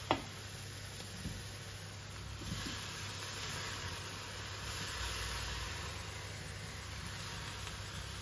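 Steak and vegetables sizzling steadily in a Saladmaster stainless steel skillet as broccoli florets are dropped in by hand, with a steady low hum underneath.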